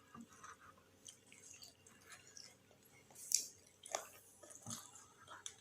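Close-up chewing of chicken-intestine satay: soft, wet mouth sounds with a few sharper clicks, the clearest about three seconds in and again near four seconds.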